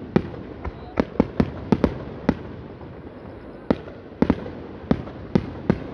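Aerial firework shells bursting in a rapid, irregular string of sharp bangs, about fifteen in all. They come in two quick clusters with a short lull in the middle.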